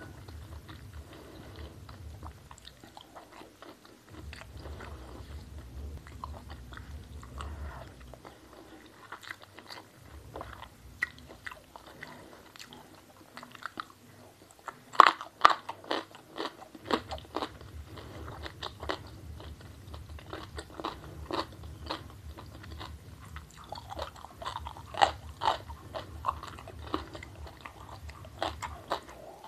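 Close-miked eating sounds: a person chewing and crunching food, with crisp bites. The bites come thickest and loudest about halfway through and again near the end.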